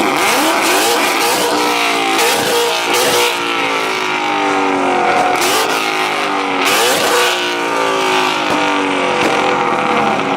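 Car engines at a rev battle, revved hard again and again, the pitch falling back after each rev, with several engines overlapping.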